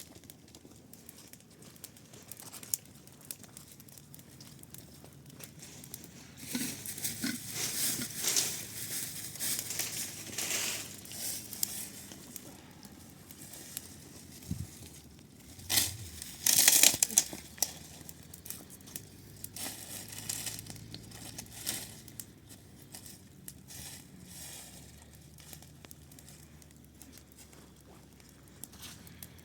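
Crinkling and rustling, as of something dry or papery being handled, in irregular bursts from about 6 seconds in and again, loudest, about 16 seconds in.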